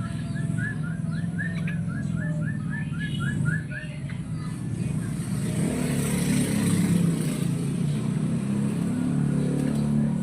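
Yellow-vented bulbul (trucukan) calling: a fast run of about a dozen short, even notes, roughly six a second, in the first two seconds, over a steady low rumble that grows louder about halfway through.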